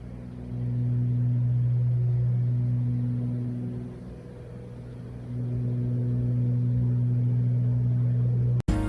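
Cessna 402's twin piston engines and propellers droning with a steady low hum. It swells about half a second in, eases off around four seconds, swells again just after five, and cuts off suddenly near the end.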